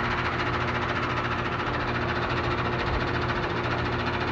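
Amana central air conditioner's outdoor condensing unit running steadily in cool mode: a constant compressor hum under the rushing air of the condenser fan.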